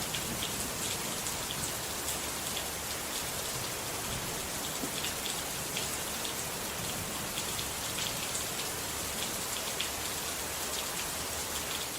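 Steady rainfall, an even hiss with many individual drops ticking through it.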